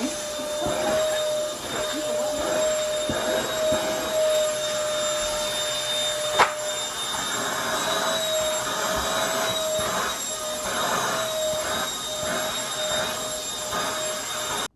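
Vacuum cleaner running with a steady motor whine over the rush of suction, the airflow sound swelling and fading as it is worked over a car's interior. A single sharp click comes about six seconds in.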